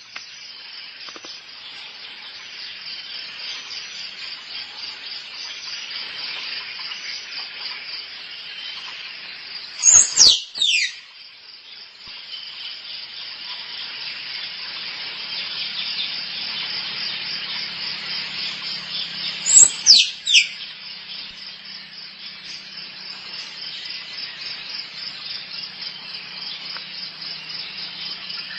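Squirrel calls: two groups of sharp, high squeals, each falling steeply in pitch, about ten seconds in and again about twenty seconds in. They sound over a steady, rapidly pulsing insect chorus.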